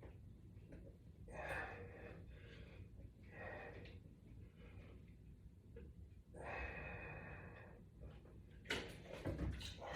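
A man breathing out hard three times, a couple of seconds apart, while working through a resistance-band exercise. There are a few sharp clicks and knocks near the end.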